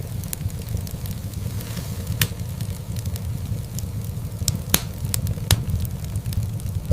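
Wood fire burning in a fireplace: a steady low rumble with scattered sharp crackles and pops. The loudest pops come about two seconds in and twice past the middle.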